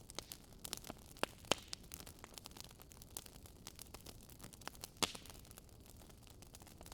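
Wood fire crackling: irregular sharp pops and snaps over a faint steady hiss, with the loudest pops about a second and a half in and about five seconds in.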